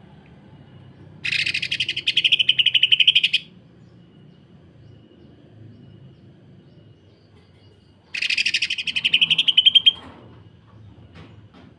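Cucak ijo (greater green leafbird) singing its rough, dense 'sewing machine' song: two loud bouts of rapid, rattling repeated notes, each about two seconds long, the first about a second in and the second about eight seconds in.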